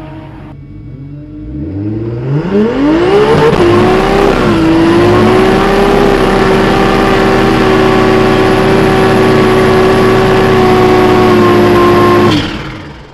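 Turbocharged 1JZ-GTE straight-six engine heard from inside the car: revved up steeply, then held at a steady high pitch for about eight seconds before the throttle is snapped shut near the end, dropping to a low rumble.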